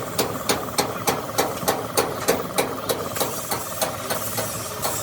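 Sharp knocks repeating evenly about three times a second over a steady mechanical hum, the knocks growing weaker near the end.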